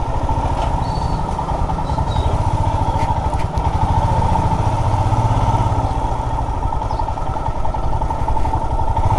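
Motorcycle engine running steadily under way, a continuous low thrum of rapid, even firing pulses.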